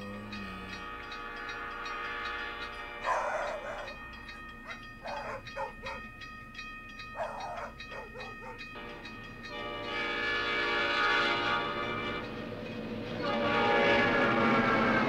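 Recorded sound effects of a train passing with its horn sounding, and dogs barking a few times between about three and seven seconds in. The train's rumble swells about ten seconds in and grows louder again near the end.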